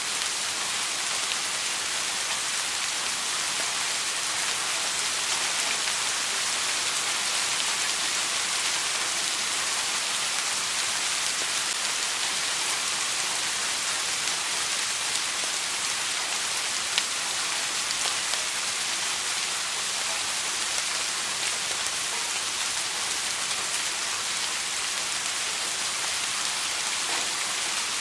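Steady rain falling, an even hiss with scattered individual drops ticking, one sharper drop about two-thirds of the way in.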